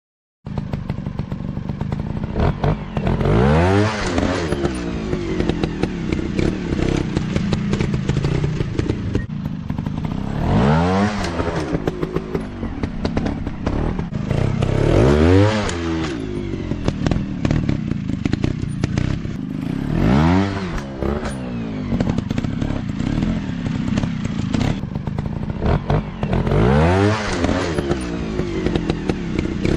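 Dirt bike engines running hard off-road, revving up and dropping back about five times, with clattering and knocks over rough ground.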